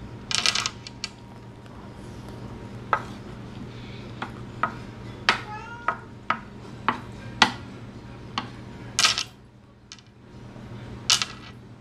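Cutlery clinking and scraping on a plate while eating: irregular sharp clinks, a few ringing briefly, over a steady low hum.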